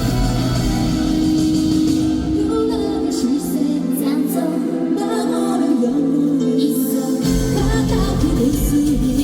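Live J-rock band playing with a female lead vocal. The bass and drums drop out for about four seconds in the middle, leaving the voice over lighter backing, then the full band comes back in about seven seconds in.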